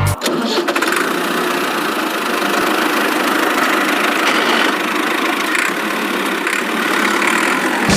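Helicopter motor and rotor running steadily, a dense whirring buzz with a rapid fine chop; it starts and cuts off abruptly.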